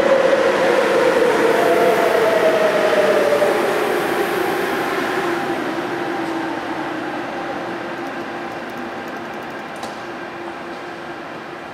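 MTR Airport Express A-Train running past and moving away: its running noise and motor whine fall slowly in pitch and fade steadily.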